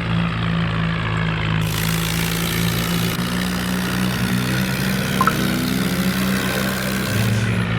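5911 tractor's diesel engine running steadily while pulling a loaded trolley. From about two seconds in until near the end, a broad hiss lies over the engine.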